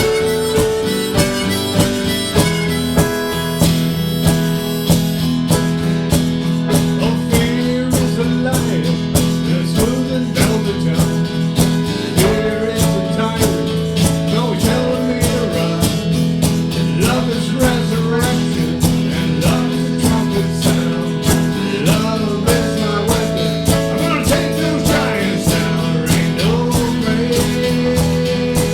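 Harmonica playing held chords with guitar over a fast, steady beat: blues-style train music.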